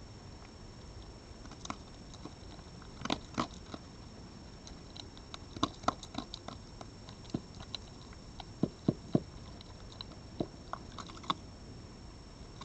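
An animal at a garden feeding spot crunching and chewing food, a run of irregular sharp crunches with the loudest bites about three seconds in and again around nine seconds.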